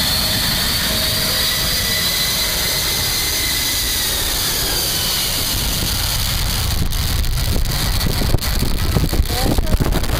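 Large jet plane's engines running with a high whine that slowly falls in pitch over the first few seconds, over a low rumble, then fades away. Wind buffets the microphone in the second half.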